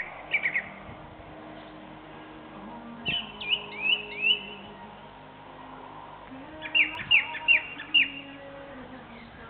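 A songbird singing short phrases of quick, downward-slurred whistled notes, three phrases with pauses of a couple of seconds between them.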